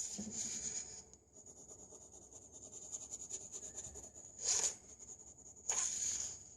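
Drawing strokes on paper, scratchy: one longer stroke at the start, a short louder one past the middle, and another near the end.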